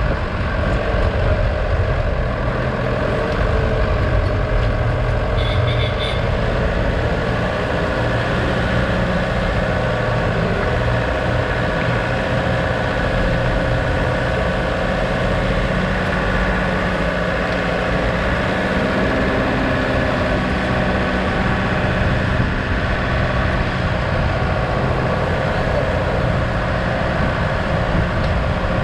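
Vehicle engine running steadily with road and wind noise as it drives.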